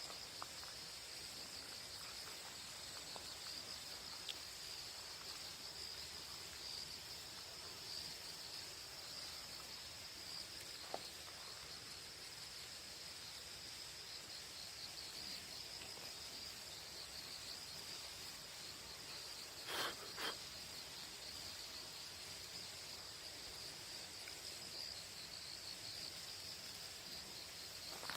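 Crickets chirring in a steady high-pitched chorus, as in an early-autumn countryside. Two short, slightly louder sounds come about twenty seconds in.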